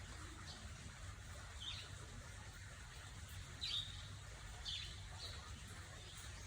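A bird chirping: four short, high chirps, each dropping in pitch, spaced irregularly, over a faint steady low rumble.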